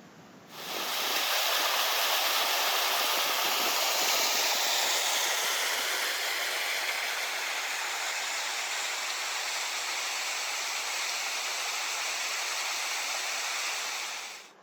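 Rushing creek water pouring over a cascade, a loud steady hiss. It cuts in suddenly about half a second in and cuts off just before the end.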